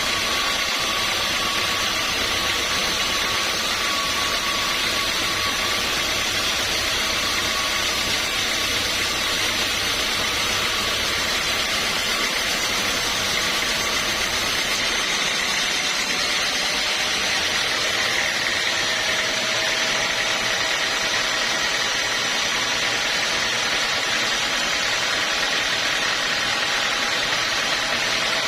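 Sawmill machinery running steadily: a continuous mechanical hum with a few steady whining tones. The low rumble drops away about halfway through.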